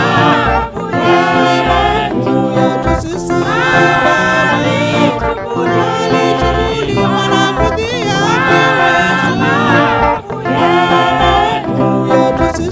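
A worship song: singing in sustained, gliding phrases over instrumental accompaniment, with brief breaks between phrases.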